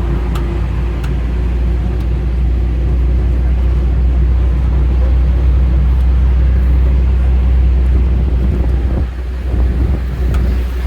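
Steady low engine rumble and road noise of a moving bus, heard from on board.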